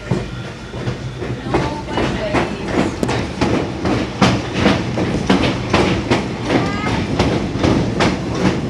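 Passenger railcar riding over jointed track, its wheels clacking in a steady, fast rhythm over a continuous rumble, heard from inside the car.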